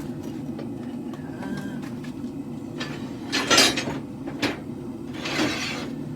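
Blacksmith's forge running with a steady low roar, with a few loud metal clanks and scrapes over it in the second half.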